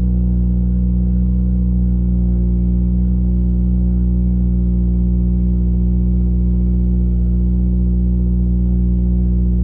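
Turbocharged Nissan 240 engine with a straight-piped turbo-back exhaust (high-flow cat J-pipe and ETS Extreme catback) idling steadily on a cold start, heard from inside the cabin.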